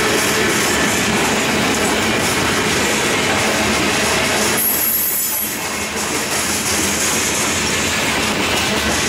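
Covered hopper cars of a Norfolk Southern freight train rolling past close by, a steady loud rumble and rattle of wheels on rail, dipping briefly about five seconds in.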